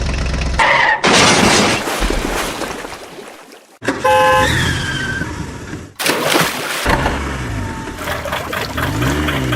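A quick-cut string of loud vehicle sounds that change abruptly every second or two: a steady low engine hum, short horn-like toots, and stretches of rushing noise. Wavering musical tones come in near the end.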